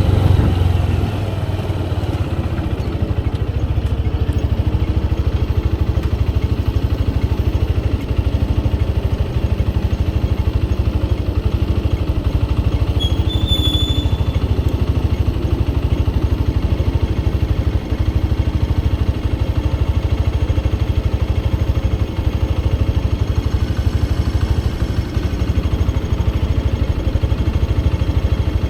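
Motorcycle engine running with a steady low pulsing drone, its revs falling away in the first second or so. A brief high chirp sounds about halfway through.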